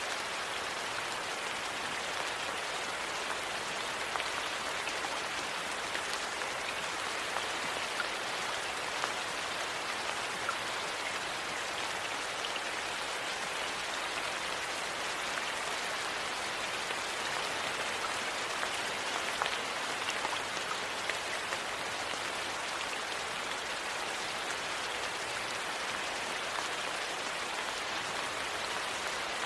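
Steady rain falling, an even dense hiss, with scattered small crackles and pops from a wood fire.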